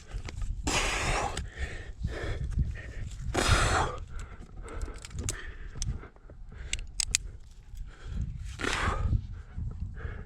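A climber breathing hard: three heavy breaths, about 1 s, 3.5 s and 9 s in, the middle one the loudest. Scattered sharp clicks come between them, with a constant low rumble from wind or handling on the microphone.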